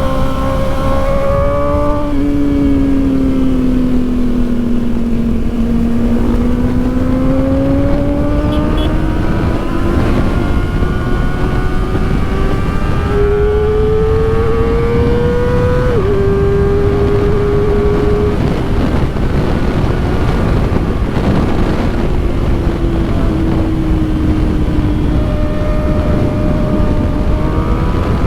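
Kawasaki Ninja ZX-4RR's 399 cc inline-four engine running under way, its pitch rising and falling with the throttle, with a sudden drop in pitch about sixteen seconds in. A steady rush of wind noise sits under it.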